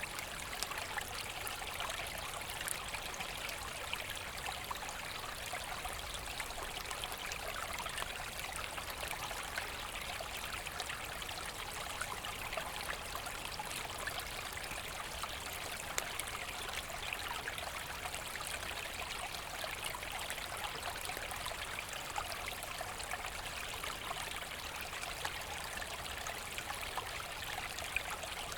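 Forest stream running steadily, water trickling and splashing over stones.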